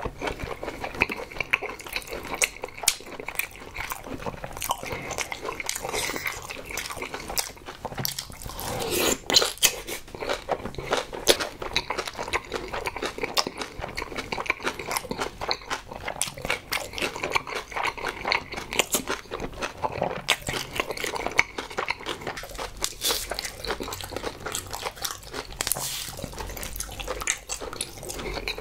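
Close-miked chewing of a large mouthful of kimchi and boiled pork: wet smacking and crunching, with many small mouth clicks and a louder burst about nine seconds in.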